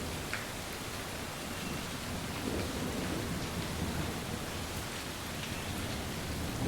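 Steady rain falling, with scattered drops ticking and a soft low rumble, like distant thunder, swelling and fading about two to four seconds in.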